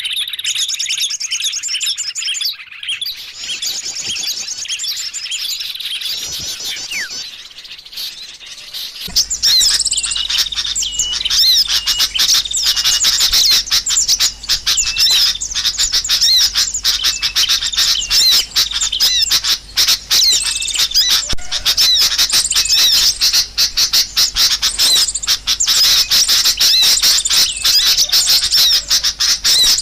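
Small songbirds chirping and trilling in quick, high notes, a lure-call recording for attracting small birds. About nine seconds in it changes abruptly to a louder, denser run of chirps.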